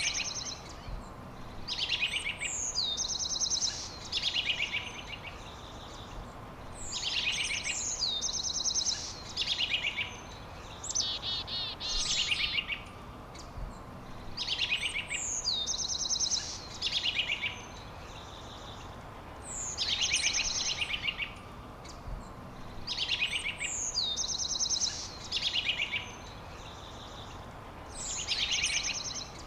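A songbird singing the same short phrase over and over, about once every three seconds: a high whistle sliding downward, then fast high trills, over a steady background hiss.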